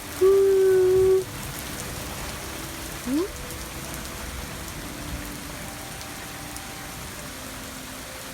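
Steady rain falling on the roof. In the first second there is a loud, held pitched tone, like a hummed voice, and about three seconds in there is a short rising one.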